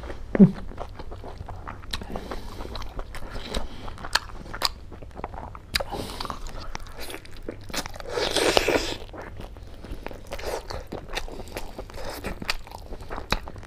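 A person chewing and biting mouthfuls of pork curry with mustard leaves and rice, eaten by hand, with many short wet mouth clicks and crunches. A louder crunching burst lasting about a second comes a little past the middle.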